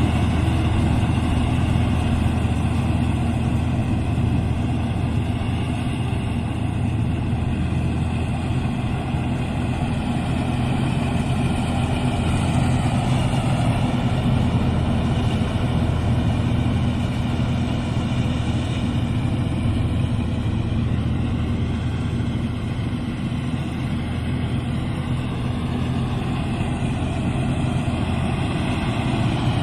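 Rice combine harvester running steadily, its engine and threshing machinery making a constant drone whose pitch wavers a little now and then.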